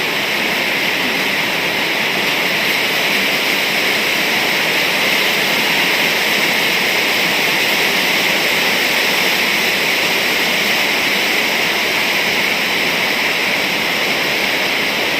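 Heavy rain pouring down, a loud steady rushing hiss with no letup.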